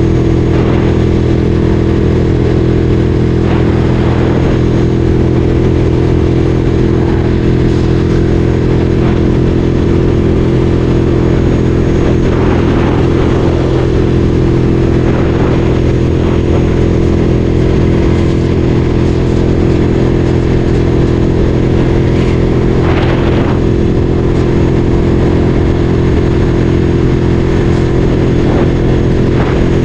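Ducati Streetfighter 848's L-twin engine running at a steady speed under way, holding one even pitch without revving up or down.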